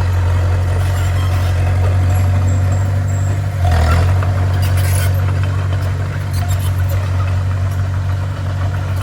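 Heavy diesel earthmoving machine running steadily with a deep, even engine hum, and a brief louder surge about four seconds in.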